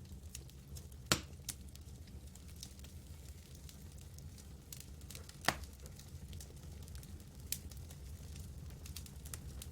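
Campfire crackling: scattered small pops, with two louder pops about a second in and about five and a half seconds in, over a steady low background noise.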